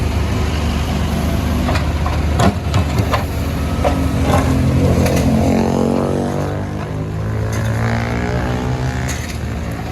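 CAT 462F backhoe loader's diesel engine running, its revs rising about four seconds in and easing off around seven seconds. Several sharp knocks come about two to three seconds in.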